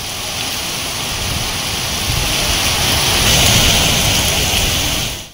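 Heavy rain pouring down: a steady rushing hiss that builds a little toward the middle, then cuts off abruptly at the end.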